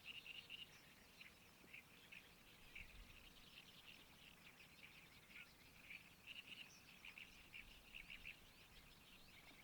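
Faint chorus of small birds chirping, many short chirps one after another, thickest about a second in and again around six to eight seconds in.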